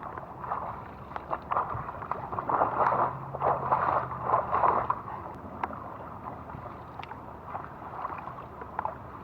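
Floodwater flowing, an irregular rushing, gurgling wash with small splashes that grows louder for a few seconds in the middle.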